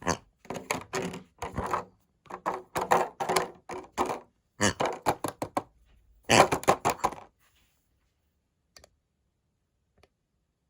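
Quick, irregular clattering and knocking of hard plastic, like a toy washing machine with toy figures rattling inside. It stops about seven seconds in, leaving two faint clicks.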